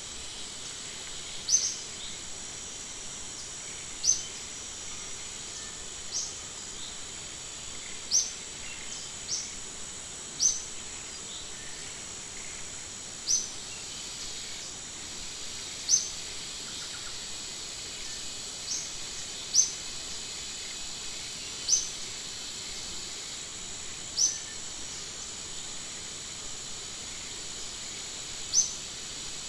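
Outdoor insect chorus as a steady high hiss, with a short, sharp high chirp call repeating about every two to three seconds.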